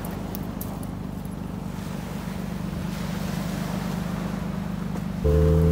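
Toyota 4Runner engine idling with a steady low rumble. Near the end, guitar music comes in over it.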